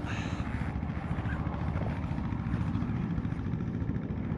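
BMW R1200 GS boxer-twin engine running with a rapid, even pulse, a little louder midway, under throttle as the rider tries to drive the bike out of a mud hole.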